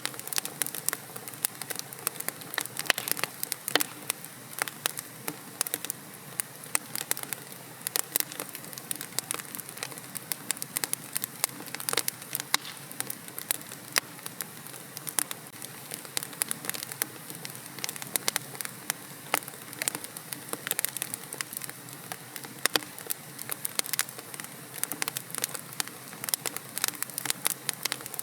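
Wood fire crackling and popping, with dense irregular snaps over a soft steady hiss.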